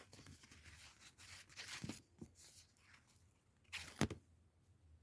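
Paper being peeled or torn: a short rustling tear about halfway through, then one sharp tap just before the end.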